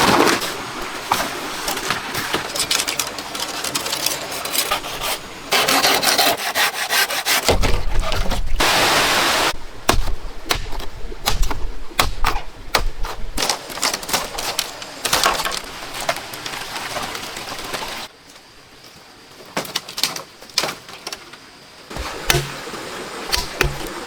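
Wood being worked with hand tools: sawing and rubbing, with many sharp knocks and strikes. The sound changes abruptly several times, with short stretches of steady noise in between.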